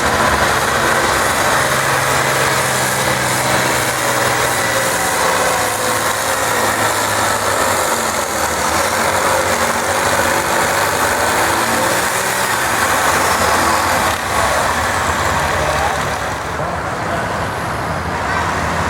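Tractor engine running at a steady speed, its pitch holding with only small shifts.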